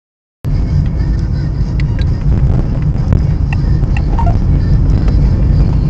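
Silence for about half a second, then the sudden start of a car's steady low rumble of engine and road noise as picked up by a dashcam.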